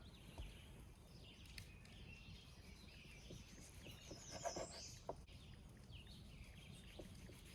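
Near silence with faint outdoor ambience and a few faint bird chirps, the clearest about four and a half seconds in.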